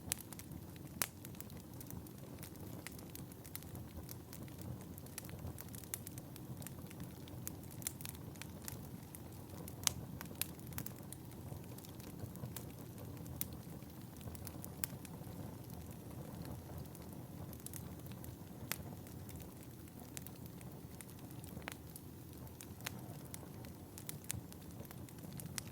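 Wood fire burning in a fireplace: a steady low rumble of flames with irregular crackles and pops, a few of them sharper and louder.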